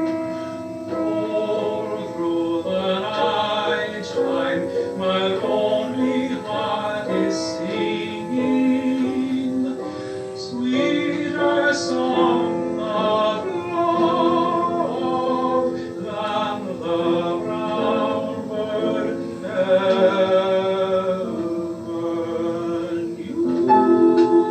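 Solo voice singing long held notes with vibrato in a classical style, with piano accompaniment.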